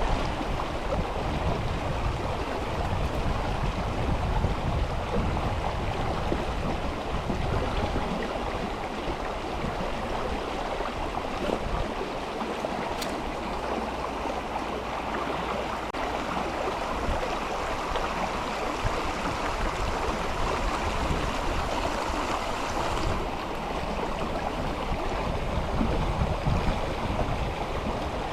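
Mountain river flowing, a steady rushing of water.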